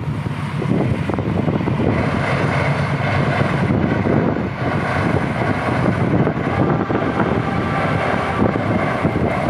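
Strong gusty wind blowing across the microphone, a loud, steady rumbling noise.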